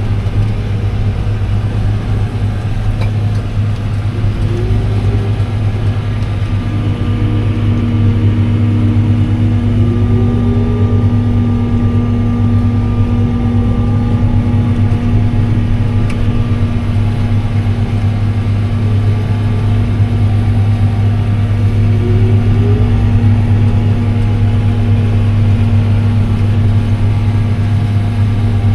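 A heavy farm machine's engine running steadily under load, a constant deep drone, with a fainter whine that rises and falls several times.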